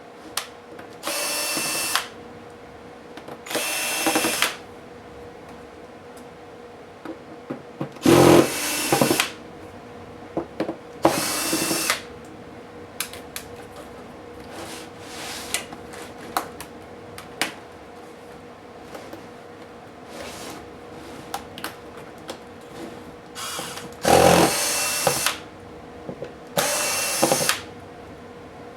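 Small electric screwdriver running in six short bursts of about a second each, backing out screws during laptop disassembly, with light clicks of parts being handled in between.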